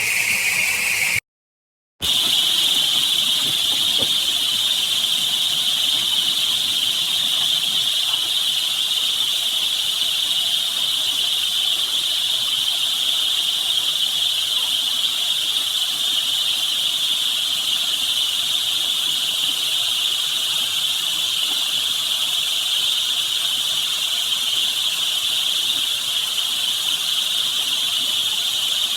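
Steady rushing water sound run through a voice-changer effect, turned into a shrill, hissing, insect-like tone. It cuts out completely for under a second about a second in, then returns higher-pitched and holds steady.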